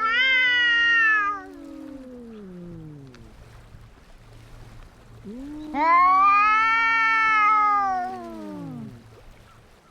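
Cats caterwauling as in a fight standoff: two long drawn-out yowls, one at the start and one from the middle to near the end. In each, a lower wail runs under a higher one, and the pitch rises and then sinks.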